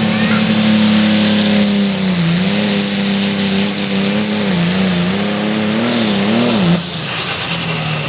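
Allis-Chalmers 220 super stock pulling tractor's diesel at full throttle under load, a turbo whistle rising and then holding high over the engine note. The engine speed sags several times, and the engine drops off suddenly near the end.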